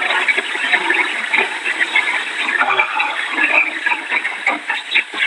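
Loud rushing of heavy rain and storm wind, dense and crackly, heard through a phone microphone.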